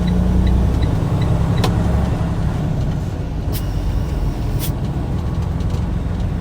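Semi-truck diesel engine running, heard from inside the cab, with a light regular ticking, about three a second, that stops about a second and a half in. A few sharp clicks follow.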